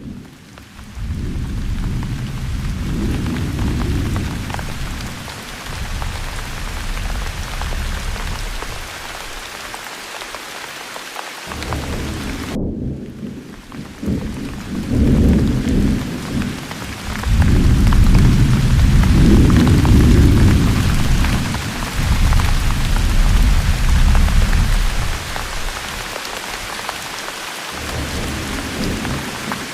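Steady heavy rain hissing, with deep rolls of thunder that swell and fade several times. The rain sound breaks off for a moment about halfway through and starts again.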